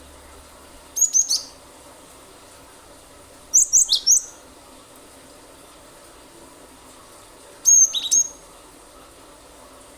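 Cinereous tit (glatik batu) singing in three short bursts of quick, sharp high notes, a few seconds apart, some notes dropping in pitch.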